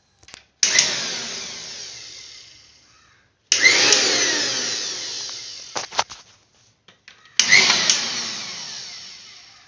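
Butterfly mixer grinder motor switched on in three short bursts. Each time it starts abruptly, then fades with a falling whine as it coasts down, with switch clicks in between. It is now turning freely after its seized, rusted bush was cleaned, adjusted and oiled.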